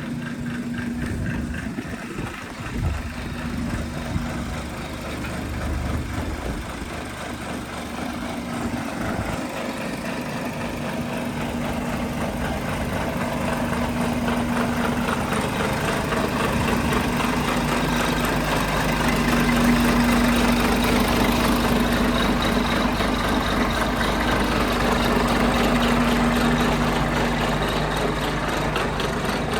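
Scania P500 truck's diesel engine running steadily, growing louder through the middle and easing slightly near the end.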